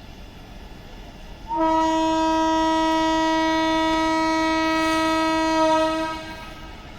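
Indian Railways train horn sounding one long, steady blast of about four and a half seconds, starting about one and a half seconds in.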